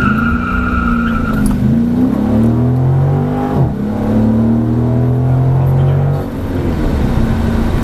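Dodge Challenger accelerating at full throttle from a standing start, heard from inside the car: the engine note climbs, drops at an automatic upshift about three and a half seconds in, climbs again, then eases off about six seconds in.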